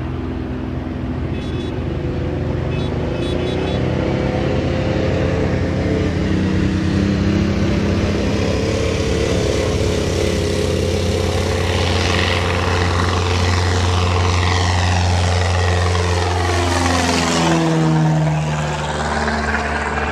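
Propeller airplane flying past, its engine drone steady and loud, then dropping in pitch as it passes, near the end.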